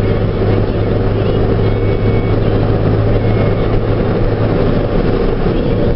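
Semi truck's diesel engine running steadily at road speed, heard from inside the cab as a constant low drone.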